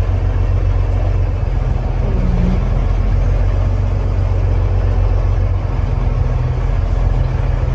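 Diesel engine of a freshly overhauled 2014 Peterbilt glider semi truck running at low speed while the truck is manoeuvred, a steady low drone.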